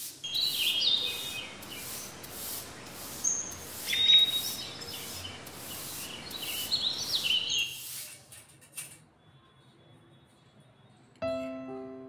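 Birds chirping, with short rising and falling calls, over an even scratchy rustle that repeats about two to three times a second for roughly eight seconds. Piano music begins near the end.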